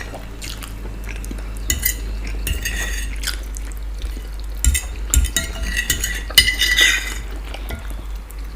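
Cutlery scraping and clinking against a plate of food, in short irregular runs that are busiest in the second half.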